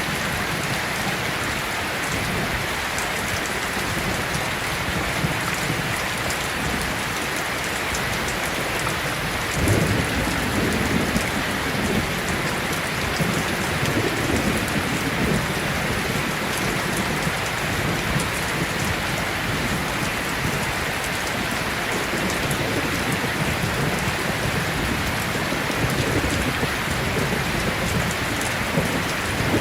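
Heavy rain pouring steadily, with low rumbles of distant thunder that swell about ten seconds in and again later.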